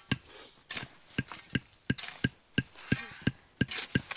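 A fast, evenly paced series of sharp knocks, about three a second, like something hard striking wood over and over.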